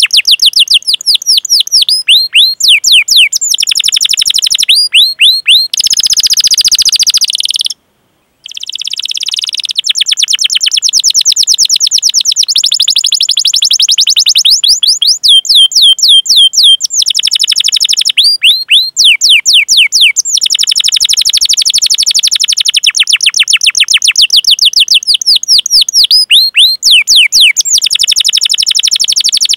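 Domestic canary singing fast rolls of rapidly repeated, falling 'cuit cuit' chirps, run after run with short breaks. The sound drops out completely for about half a second around eight seconds in.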